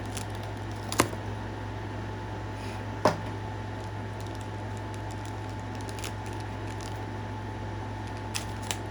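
Steady hum of a running air conditioner, with a few sharp clicks from handling small boxes and packing: two louder ones about one and three seconds in, two faint ticks near the end.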